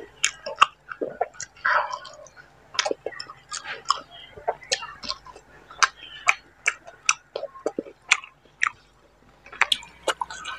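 Close-miked chewing and lip-smacking as mouthfuls of rice with fish curry and greens, eaten by hand, are chewed: irregular wet clicks and smacks coming several times a second.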